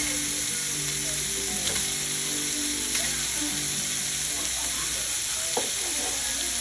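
Turkey stir fry with peppers and onions sizzling steadily in a hot pan while being stirred, with a few short clicks of the utensil.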